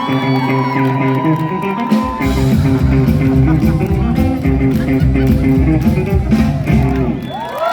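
Live rockabilly band playing, led by electric guitar. A long held guitar note opens it, then the bass and drums come in heavily about two seconds in, and a few sliding notes follow near the end.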